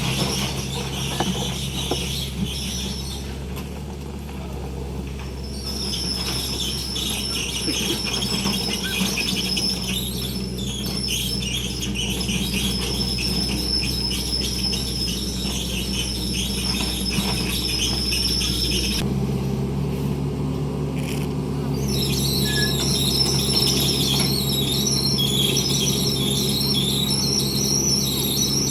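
Heavy truck's diesel engine labouring at a steady pitch on a steep climb, with a loud, high-pitched wavering squeal over it that breaks off twice and comes back.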